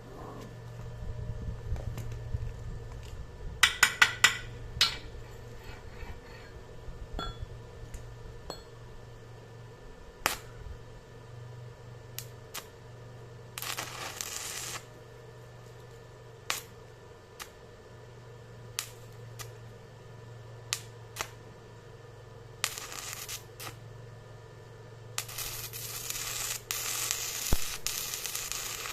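Metal parts and tools clinking and knocking, with a quick run of ringing metal-on-metal strikes about four seconds in and several bursts of hissing later on.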